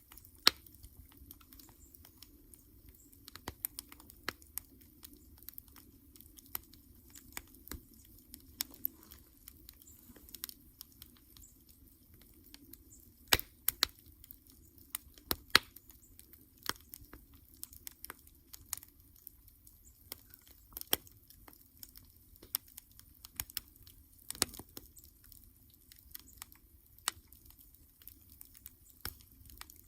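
Wood campfire crackling: irregular sharp snaps and pops of burning wood, a few much louder than the rest, over a faint steady low hiss.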